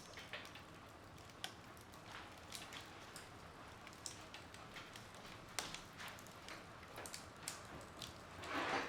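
Wood fire crackling in a fireplace: irregular sharp pops and snaps from the burning logs over a faint hiss. Near the end comes a louder, brief rush of hissing noise.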